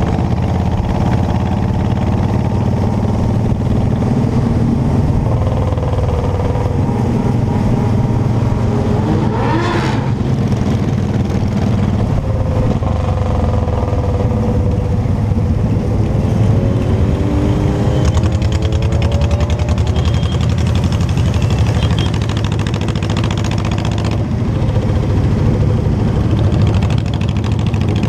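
Motorcycle engine running while riding, its pitch rising and falling several times as the rider speeds up and eases off.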